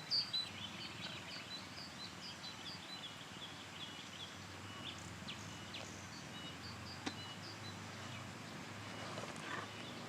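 Outdoor ambience with birds chirping: a rapid run of high chirps, several a second, fades over the first few seconds into scattered calls. A single sharp click comes about seven seconds in.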